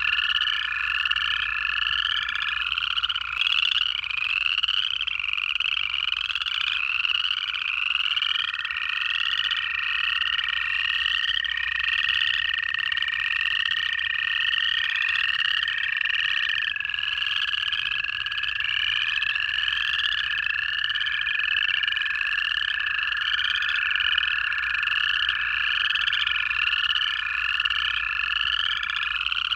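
Dense chorus of upland chorus frogs, a continuous run of short rising trills, overlaid by the long, steady trills of American toads. Each toad trill holds one pitch for several seconds, and the trills overlap and hand over one to the next.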